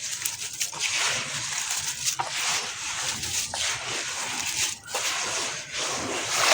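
Dried sand-cement shapes crumbling and breaking apart in water, giving a gritty crackling fizz that swells and fades in several waves, with a few sharp cracks and small splashes.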